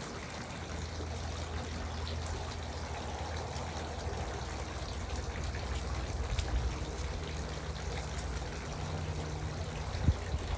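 Garden water fountain trickling and splashing steadily, with a low hum underneath and a single short knock near the end.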